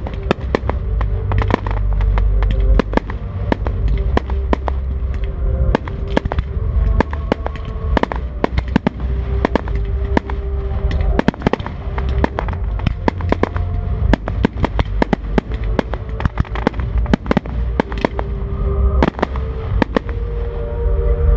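Fireworks display: a dense, continuous series of sharp bangs and cracks from bursting shells, several a second, over a deep rumble.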